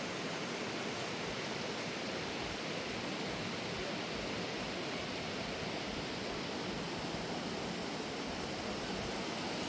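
Steady, even rushing hiss that holds at one level throughout, with no distinct events.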